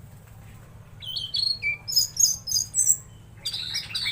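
A tledekan laut songbird singing: quick, sharp high chirps and whistles jumping in pitch, starting about a second in, with a short break before a second phrase near the end. A steady low hum runs underneath.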